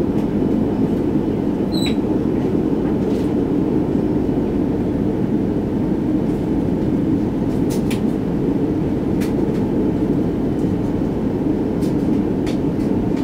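Steady low rumble inside the cabin of an Airbus A330-300 taxiing before takeoff: its engines running and the airframe rolling on the ground, with a few faint clicks.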